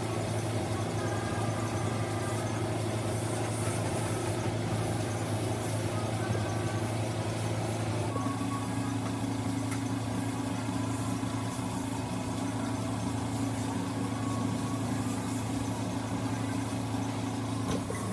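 An engine idling steadily, its note stepping slightly lower about eight seconds in.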